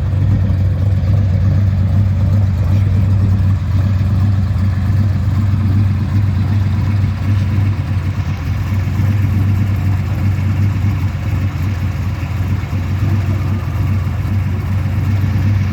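Classic Nissan Laurel engine idling steadily with an even low hum.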